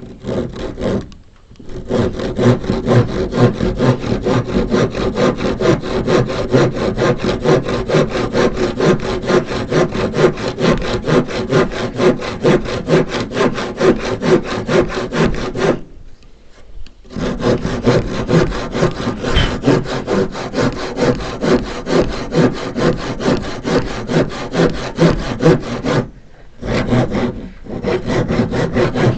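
Handsaw (rip-style 'rabo de zorro' saw) cutting through a wooden beam with a fast, steady rhythm of push-pull strokes, stopping briefly three times before carrying on.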